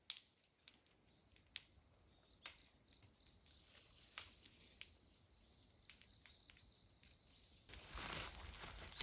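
A wood campfire, very faint, giving a few scattered sharp pops over a thin steady high tone. Near the end, louder crackling comes in.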